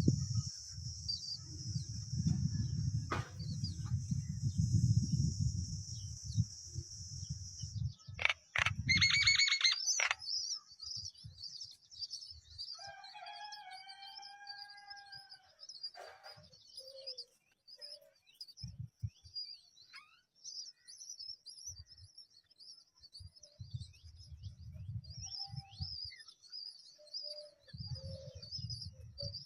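Small birds chirping: a dense stream of short, high-pitched chirps, with a lower, drawn-out call about 13 seconds in. For the first eight seconds a low rumble and a steady high hiss lie under the sound, then stop abruptly.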